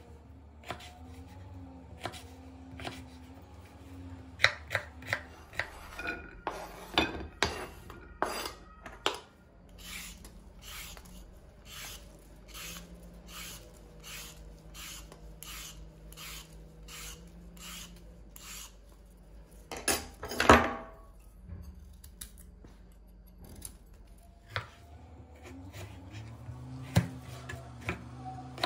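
Kitchen work with dishes and utensils: scattered knocks and clinks, then a run of even strokes about two a second for several seconds, and a loud clatter of dishes about twenty seconds in.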